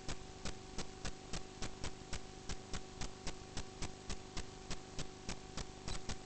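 A steady hum under rapid, regular ticking, about four or five ticks a second.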